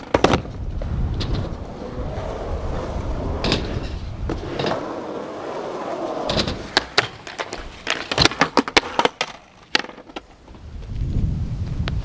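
Skateboard wheels rolling on concrete, with sharp clacks of the board scattered through, then a rapid cluster of clacks and knocks about eight to nine seconds in as the board hits a rail. Gusty wind rumbles on the microphone underneath.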